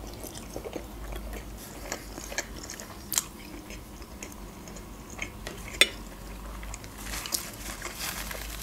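Close-miked chewing of soft boiled khinkal dough, with small wet mouth clicks. Two sharp clicks, a metal fork against a ceramic plate, come a few seconds apart, and a paper napkin rustles near the end.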